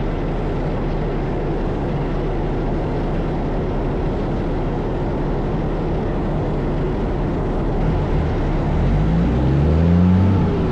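Kenworth truck's diesel engine running steadily with a low drone. Near the end a louder sound with rising and falling pitch comes in.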